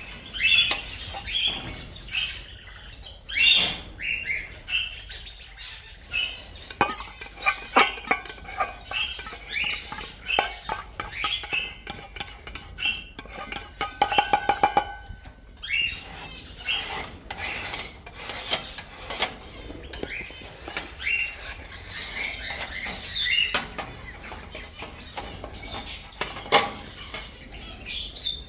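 Small aviary birds chirping and calling again and again, mixed with many sharp metallic clinks and clicks, which come in a quick run about halfway through.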